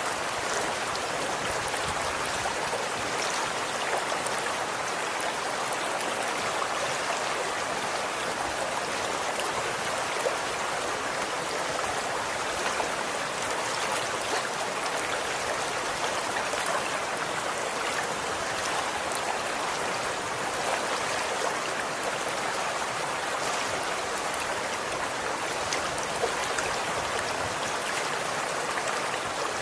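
Running water flowing steadily, a stream's even rush with small splashes and droplets.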